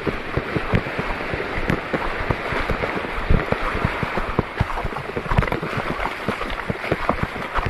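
Steady rush of water and wind, with frequent irregular low thumps of wind buffeting the microphone.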